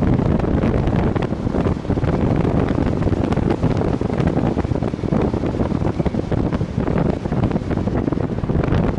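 Strong wind buffeting the microphone on a moving motorcycle, a Viper V250-C cruiser: a steady, loud rumbling rush with no clear engine note standing out.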